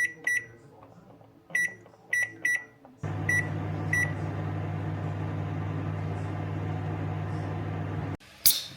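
Microwave oven: a quick series of keypad beeps, then the oven starts running with a steady low hum about three seconds in, with two more beeps just after it starts. The hum cuts off suddenly a little after eight seconds, followed by a sharp click near the end.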